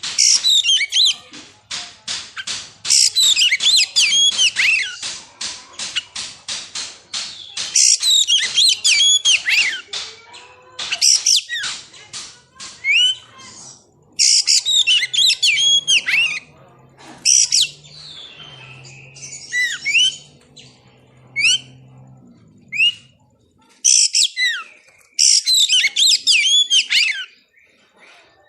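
Oriental magpie-robin (kacer) singing: loud bursts of varied whistled phrases and fast runs of repeated notes, broken by short pauses.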